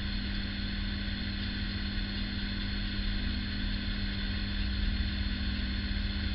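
A steady low hum with one strong constant tone and a low rumble beneath it. It stays level the whole time, with no separate strokes or knocks standing out.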